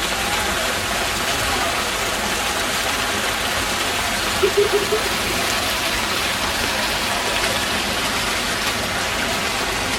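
Steady rushing-water noise of heavy rain and floodwater running through a flooded campsite. About halfway through there is a brief pitched sound of four quick pulses.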